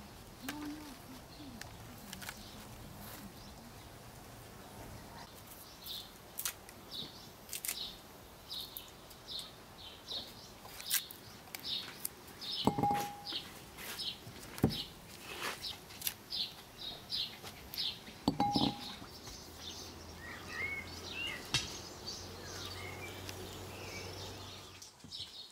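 Birds chirping outdoors: a long run of short high chirps, about two or three a second, with a few sharp knocks in between.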